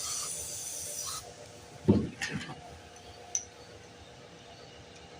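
A short hiss that stops about a second in, then a single knock about two seconds in with a brief rattle after it, and a sharp click a second later: hand tools working on a small engine.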